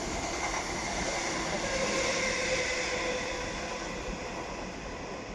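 Thameslink electric train running along the track: a steady rumble with faint whining tones, swelling about halfway through and then fading.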